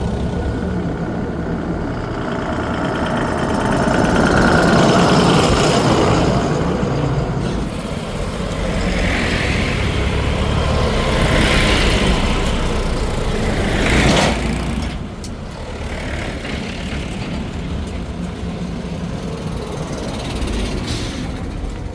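Heavy diesel engine running, swelling under load twice, with a sharp knock about fourteen seconds in.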